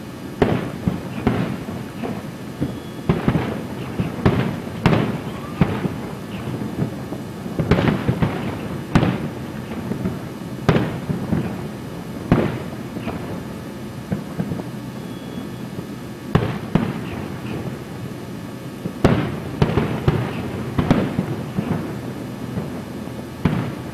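Aerial fireworks shells bursting: a string of booms and cracks coming in clusters, each trailing off in a rumbling echo, with a quieter gap around the middle before the booms pick up again.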